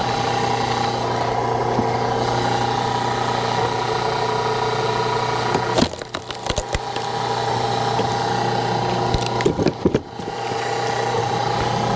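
Engine-driven hydraulic log splitter running steadily. Clusters of sharp cracks of wood splitting come about six seconds in and again near ten seconds.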